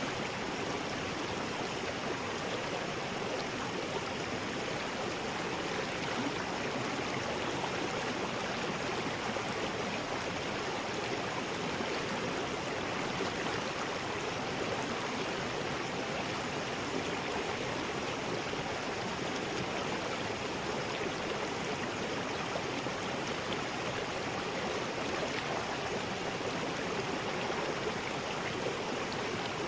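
River rapids: water rushing steadily over rocks, an even, unbroken rush with no change.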